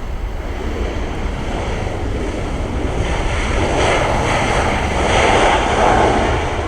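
Jet airliner's engines roaring as it passes the runway, swelling to a peak about four to six seconds in, with wind rumbling on the microphone.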